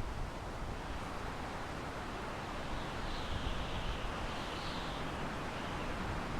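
Wind blowing through pine trees: a steady rushing hiss over a low rumble, swelling a little in a gust near the middle.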